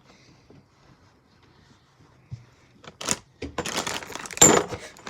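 Quiet room, then about three seconds in a run of rustling and knocking handling noise, loudest near the end.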